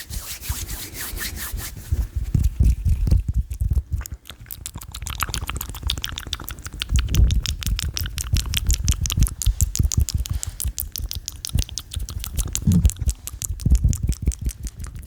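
Close-miked ASMR mouth sounds: rapid wet clicks and smacks, with low rubbing thumps from hands close to the microphone.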